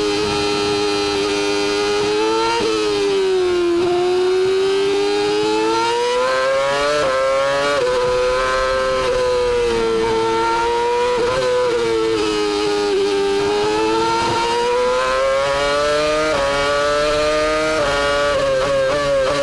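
Formula 1 V10 racing engine at high revs, heard onboard. Its pitch climbs and falls continuously, broken several times by sudden steps as the gears change.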